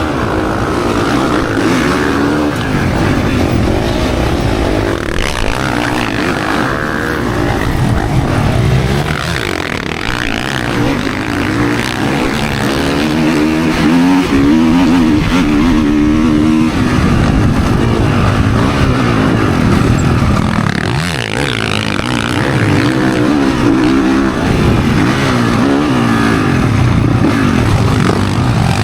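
Motocross bike engine revving hard during a race, its pitch climbing and dropping again and again as the throttle opens and closes and the gears shift.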